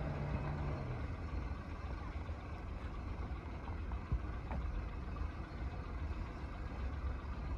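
Suzuki Mehran's small three-cylinder petrol engine running at low revs with a steady low rumble. A higher engine note falls away within the first second, and a single click sounds about four seconds in.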